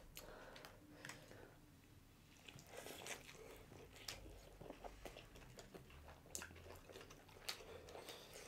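Faint biting and chewing of birria tacos: scattered soft crunches and wet chewing sounds.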